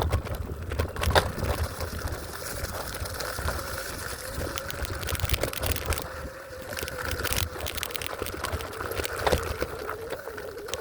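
Electric scooter riding over rough ground: a steady motor whine under repeated knocks and rattles from the wheels and frame, with wind rumbling on the microphone.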